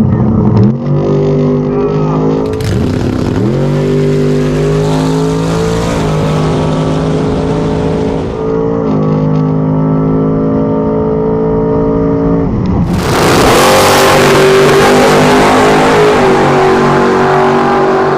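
A drag-race Thunderbird's engine running loud and steady at high revs, its pitch dipping and recovering a few times. About thirteen seconds in it becomes much louder and harsher, as at full-throttle launch down the strip.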